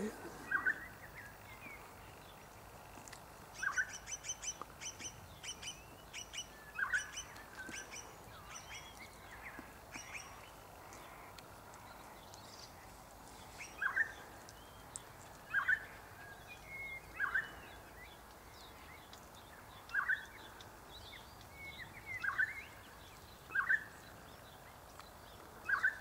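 Birds calling: short single calls repeated every second or two, with a burst of rapid high twittering in the first half.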